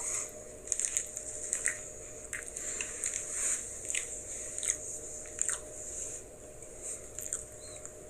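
Someone biting and chewing a Kit Kat wafer bar, with irregular crisp crunches.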